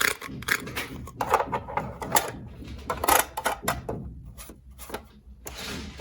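Plastic toy pieces being handled, giving irregular clicks and knocks, with a short scraping rustle near the end.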